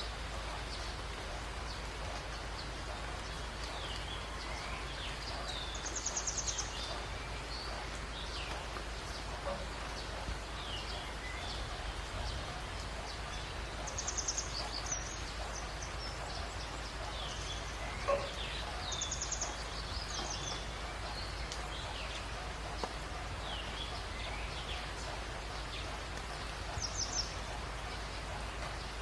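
Many small birds chirping over a steady background hiss. A short, rapid, high trill comes four times, several seconds apart.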